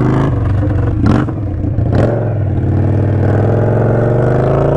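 Indian Scout Sixty's V-twin engine through a Hacker Mayhem 2-into-1 exhaust, heard while riding. The engine note breaks briefly about a second in and again at two seconds, then rises steadily as the bike accelerates.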